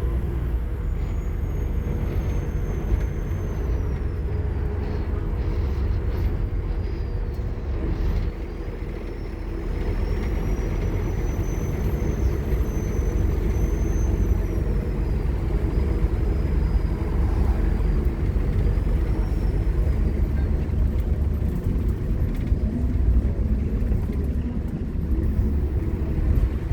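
Scania K230UB Omnilink single-decker bus, its five-cylinder diesel engine pulling hard with a heavy low rumble and a high whine gliding up and down in pitch. The engine eases off briefly about eight seconds in, then pulls hard again.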